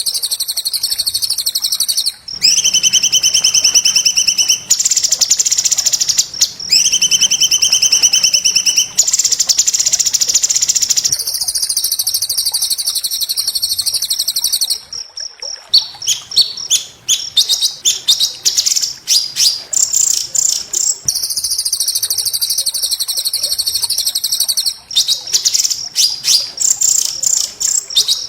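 White-rumped shama (murai batu) song: long, very fast, harsh trills high in pitch, changing pitch in blocks every two or three seconds. About halfway through comes a run of rapid, choppy separate notes lasting several seconds, then the fast trills resume.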